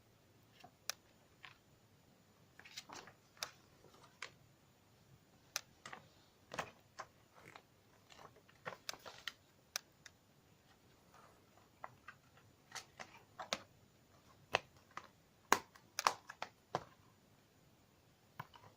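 Blu-ray cases and packaging handled by hand: irregular plastic clicks, taps and short rustles, with a few sharper clicks near the end.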